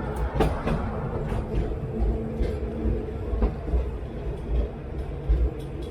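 Sóller's vintage wooden electric tram running along its track, heard from on board: a steady low rumble and hum, with irregular clicks and knocks from the wheels on the rails.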